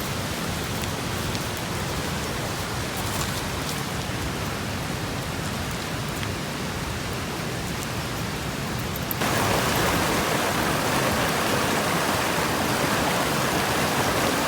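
Steady rush of flowing water from a stream or river, which gets suddenly louder about nine seconds in.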